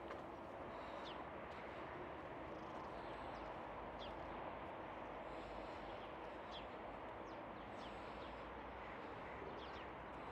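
Faint outdoor ambience: a steady wash of background noise with short, high, downward-sliding bird chirps every second or two.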